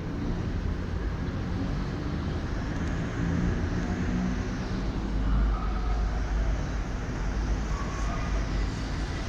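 Steady rumble of city traffic heard from high up in an apartment building, with no distinct events.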